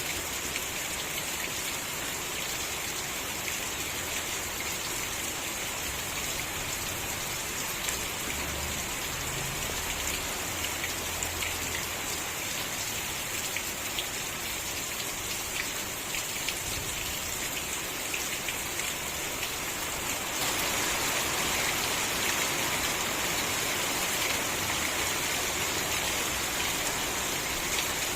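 Steady rain falling, with individual drops ticking on a surface through the hiss. It grows slightly heavier and louder about two-thirds of the way through.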